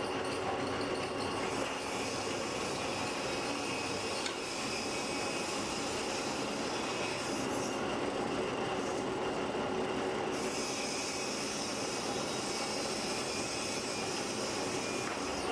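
A workshop machine running steadily, with a continuous noise of metal rubbing on metal.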